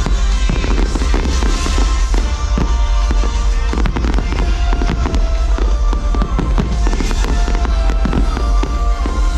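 A fireworks display with rapid, overlapping bangs and crackling bursts throughout, over a loud show soundtrack of sustained musical notes.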